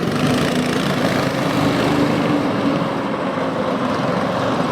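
Small cyclekart engine running steadily at speed, with a slight dip in loudness about three seconds in.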